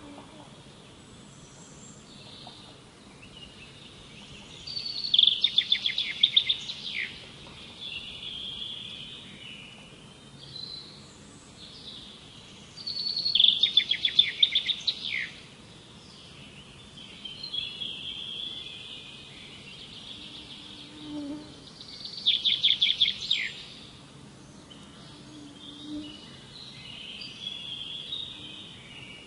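Wild birds singing: one loud song of rapidly repeated notes comes three times, about eight seconds apart, with softer chirps from other birds in between.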